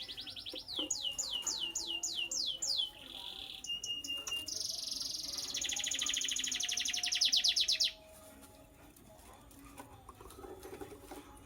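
A bird singing. First a fast trill, then a run of about eight quick downward-sweeping whistles. A short steady note follows, then a long fast buzzy trill of about three and a half seconds that stops abruptly, after which it is much quieter.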